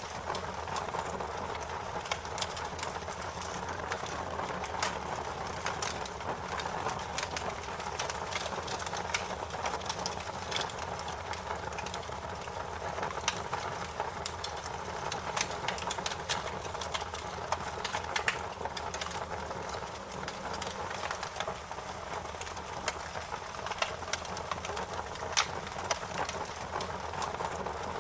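Wood fire crackling: irregular sharp pops and snaps over a steady hiss of burning.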